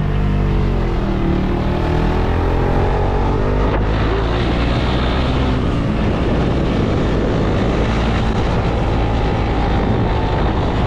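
Small motorcycle engine running under way, with wind rushing over the microphone; the engine note drops in pitch in the first second, then holds fairly steady.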